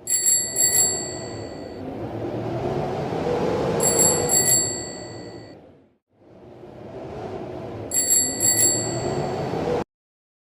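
A bright bell rings twice in quick succession, three times about four seconds apart, over a rushing noise that swells and fades away, then starts again and cuts off suddenly near the end.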